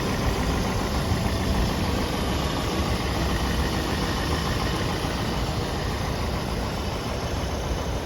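1964 Rolls-Royce V8 engine running steadily at an even speed, with no revving.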